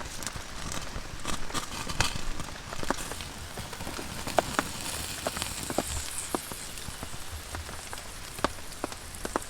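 Rain falling, with individual heavy drops tapping irregularly on a surface over a steady patter.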